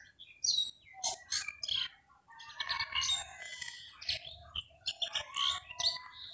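Birds chirping, many short overlapping calls one after another.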